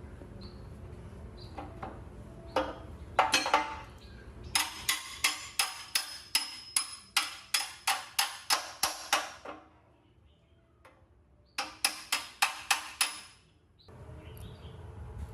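Hammer blows on metal in steady runs, about two to three a second, each strike ringing briefly, with faint bird chirps behind.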